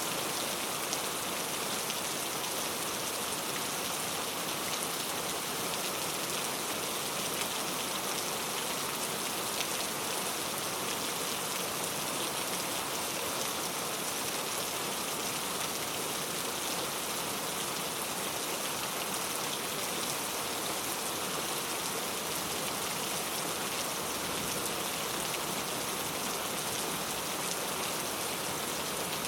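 Very heavy rain falling steadily, a dense even patter of drops.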